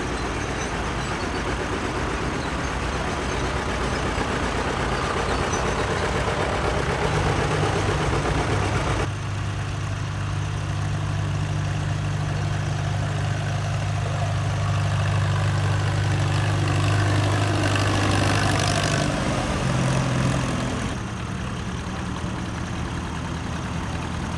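Antique tractor engines running at low speed in a parade, a continuous low engine drone. A strong steady low hum comes in about seven seconds in and drops away about nineteen seconds in, and the sound changes abruptly twice.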